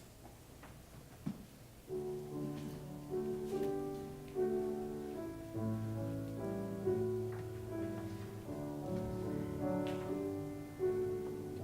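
Piano playing a slow hymn-like piece in chords, starting about two seconds in after a few small clicks in a quiet room.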